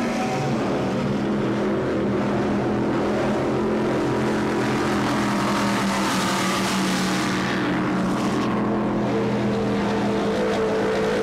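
Offshore racing powerboat engines running at speed, a steady drone over a wide hiss. The high hiss drops away briefly about eight seconds in.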